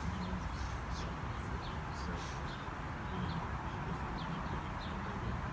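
Small birds chirping, short high calls about twice a second, over a steady low rumble.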